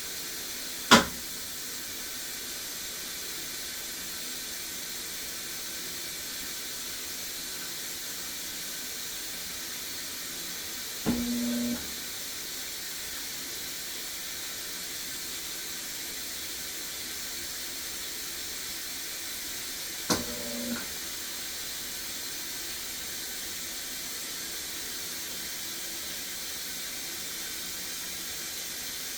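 Maytag MVWP575GW top-load washer at the start of its fill cycle: water hisses in steadily. A sharp click comes about a second in, and two short click-then-buzz bursts, each under a second, come about ten and twenty seconds in. The owner takes the clicking buzz for the drum lock releasing so the drum can turn while the tub fills.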